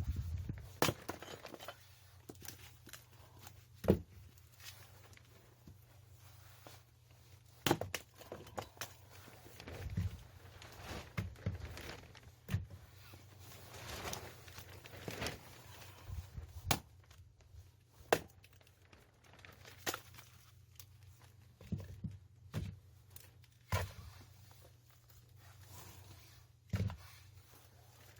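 Separate knocks and thuds of firewood work, one every two to three seconds, with a faint steady low hum underneath.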